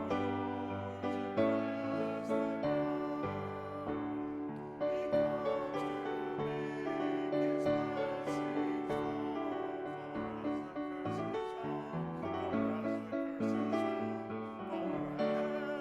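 Piano music: chords and a melody line, with notes struck and held.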